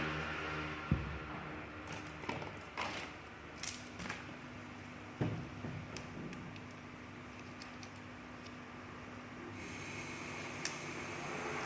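Scattered light clicks and knocks of tools and metal parts being handled, over a steady low hum.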